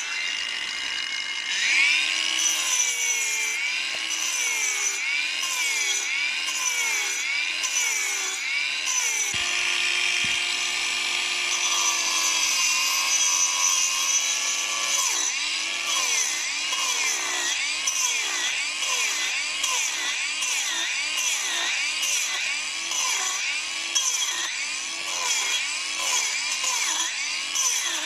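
Hand saw cutting wood in steady back-and-forth strokes, each stroke rising and falling in pitch, a little over one stroke a second, with a few longer, steadier strokes near the middle.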